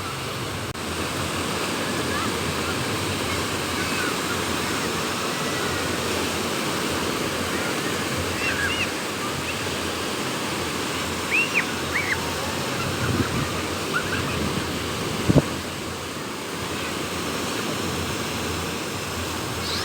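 Sea waves washing onto a beach in strong wind: a steady rushing noise. A few short high chirps come around the middle, and a brief knock about three-quarters of the way in.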